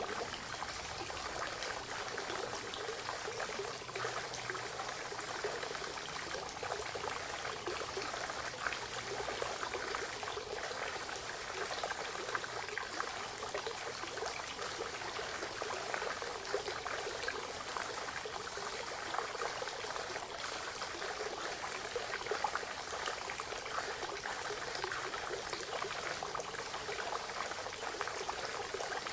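Spring water flowing and trickling steadily, a continuous splashing rush without pauses.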